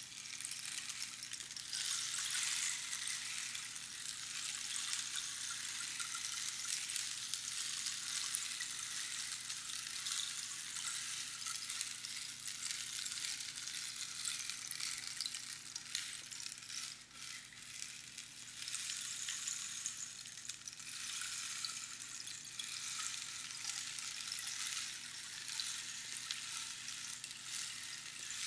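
Rainstick: small pebbles or beans trickling down a hollow cactus tube past the pins inside, making a continuous rain-like patter. It swells and fades in slow waves and dips briefly a little past halfway.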